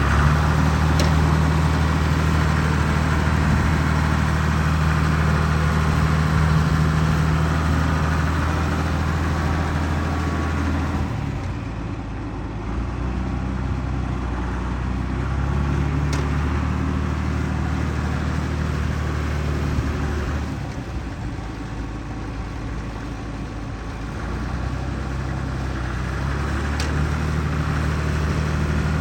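John Deere 3140 tractor's diesel engine running, its speed stepping down and back up: steady for the first ten seconds or so, lower and quieter about eleven seconds in, up again, lower again about twenty seconds in, then back up near the end.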